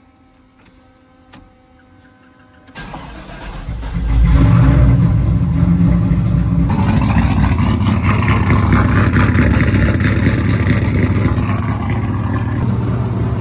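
6-litre turbo engine of an OBS pickup cranking and catching a little under three seconds in, running up loud, then settling to a steady idle. With the blown header gasket freshly replaced, it idles quietly, with no exhaust leak.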